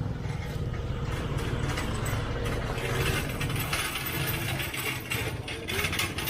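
Street traffic ambience: vehicles running on a town street, with scattered small clicks and clinks.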